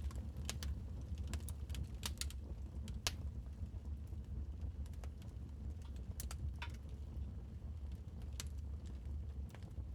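Wood fire crackling in a fireplace: irregular sharp pops and snaps, the loudest about three seconds in, over a steady low rumble.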